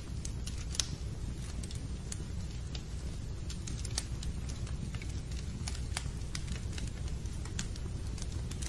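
Fireplace fire burning with a steady low rumble and scattered sharp crackles and pops, a louder pop about a second in.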